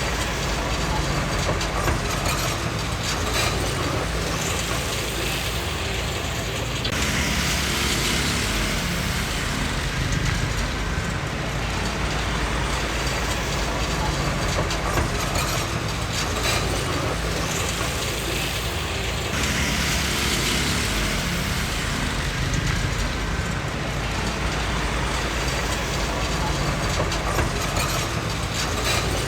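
Komatsu D20P bulldozer working: its diesel engine running steadily under the clatter of its steel tracks, the clatter swelling and easing as it works.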